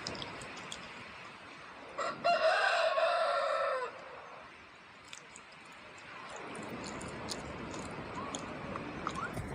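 A single loud pitched animal call lasting about two seconds, starting about two seconds in and dropping in pitch as it ends, over a faint steady hiss.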